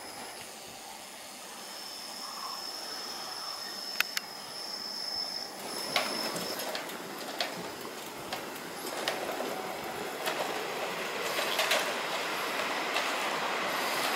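Keihan Keishin Line train approaching on the track, its wheel-on-rail noise growing steadily louder, with scattered sharp clicks.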